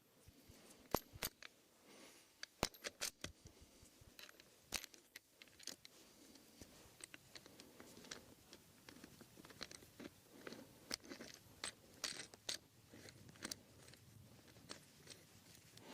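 Faint scattered clicks, small knocks and scrapes of wooden parts being handled and fitted into place.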